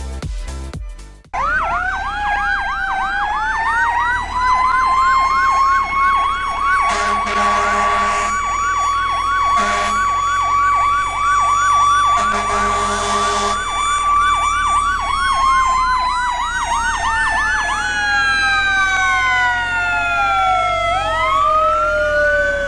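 Emergency-vehicle siren: a fast yelp sweeping up and down over a slower wail. Three horn blasts come in partway through, and both siren tones slide down in pitch near the end. A short stretch of music with a beat comes just before the siren starts.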